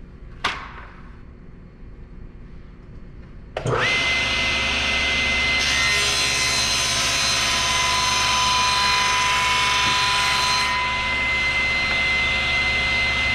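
Table saw with a 10-inch blade switched on about three and a half seconds in, coming up to speed almost at once and running with a steady high whine. From about five to ten seconds in, the blade cuts through the workpiece for a tenon cut, adding a hiss on top of the whine. A single sharp click comes about half a second in.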